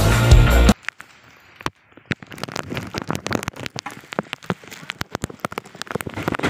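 Rock music cuts off under a second in, giving way to heavy rain: dense, irregular sharp taps of raindrops striking close to the microphone over a faint hiss.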